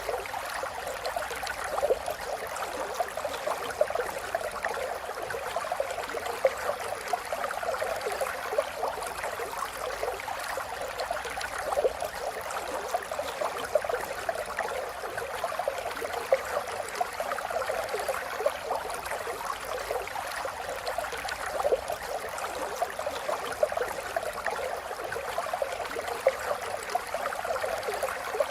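River water flowing steadily over stones, a continuous rushing with lots of small splashes and gurgles.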